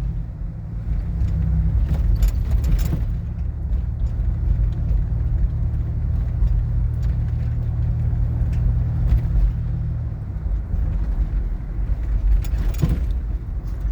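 Car running along the road, heard from inside the cabin: a steady low engine and road rumble whose engine note changes about ten seconds in, with a few brief clicks or rattles.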